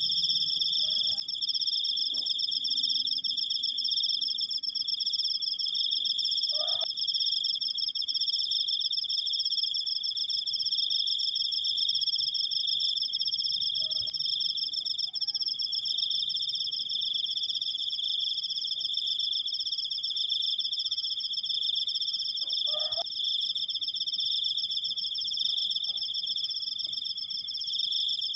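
Crickets trilling: a long, unbroken, high-pitched trill at two steady pitches. Twice, a faint short call sounds behind it.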